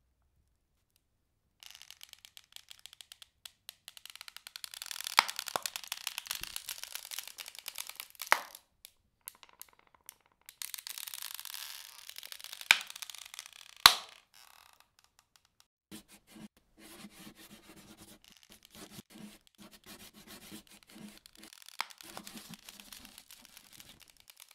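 Crackling, scratchy noise with many small clicks and a few sharp cracks. It breaks off briefly about two-thirds of the way through, then comes back lower and rougher.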